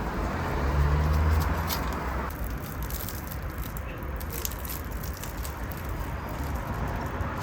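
Street background noise with a motor vehicle's low engine hum swelling and fading about a second in, amid scattered light clicks.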